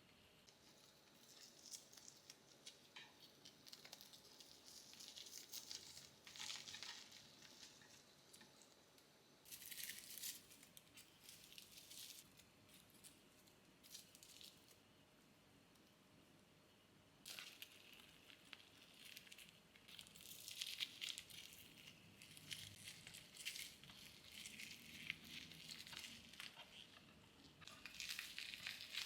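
Faint rustling and light clicks of hands handling food or packaging in a kitchen, coming in several spells with quieter gaps between.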